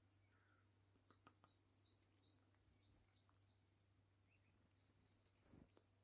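Near silence with a few faint, high, thin bird chirps and soft ticks, and one louder knock about five and a half seconds in.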